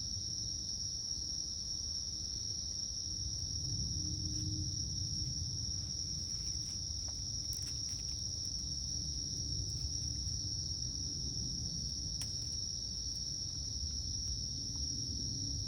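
Insects chirring in one steady, unbroken high tone, over a low rumble.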